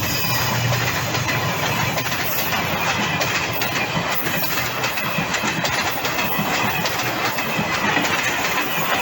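Train running along the track: a steady noisy rumble and rattle of wheels and cars, with a low engine drone that fades out about a second in.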